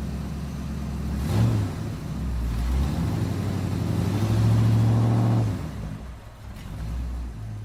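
Car engine running and being revved: it swells briefly about a second and a half in, then holds a louder, higher note for a second or so before dropping back and fading near the end.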